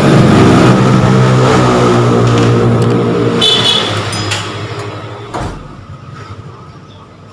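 A motor vehicle engine running loud and close, then fading away over the last few seconds, with a single click near the end.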